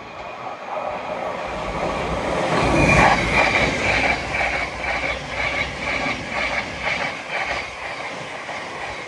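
Class 700 electric multiple unit passing through the station. It grows to its loudest about three seconds in, then fades with a regular clatter of wheels over the track, about twice a second.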